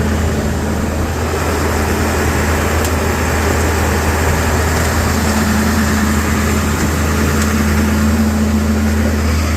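Tow truck's 7.3-litre V8 engine idling steadily while still cold, shortly after a hard cold start.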